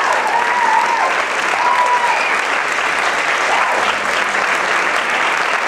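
Audience applauding steadily, with a few whoops over it.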